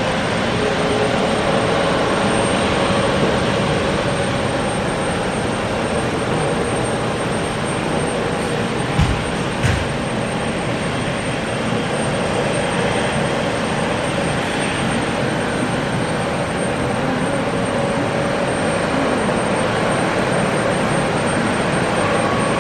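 Jet airliner engines running steadily, a dense rush with a faint held whine over it. Two short thumps come about nine seconds in.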